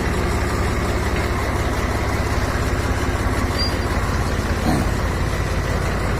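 Tractor diesel engine running steadily, with an even low thrumming pulse.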